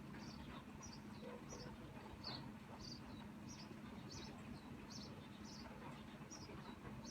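Light drizzling rain, a faint even hiss, with short high chirps repeated about twice a second over it and a steady low hum underneath.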